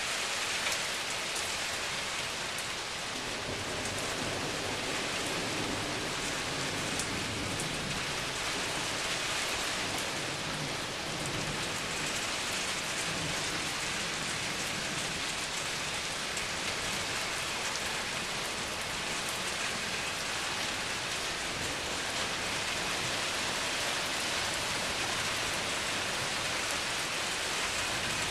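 Heavy rain pouring steadily in a thunderstorm, with a low rumble of distant thunder in the first half.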